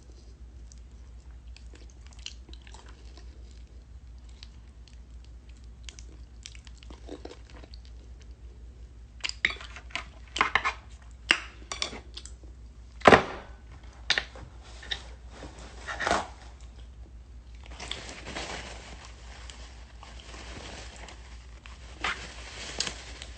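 A person eating a juicy mango close to the phone's microphone: wet chewing and mouth smacks, faint at first, then a run of sharp, loud smacks from about nine seconds in.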